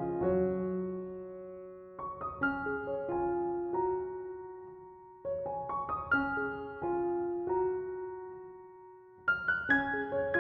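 Slow, calm piano music: short phrases of notes that ring and fade away, with a new phrase about every three to four seconds.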